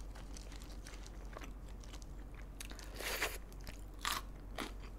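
Close-miked chewing of BHC Galbi-Leo chicken, with a few short crunches about three and four seconds in.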